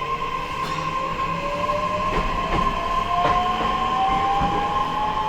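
Interior of an E131 series motor car accelerating: the traction motor whine rises steadily in pitch over a steady high tone. A few wheel clicks over rail joints come about two and three seconds in.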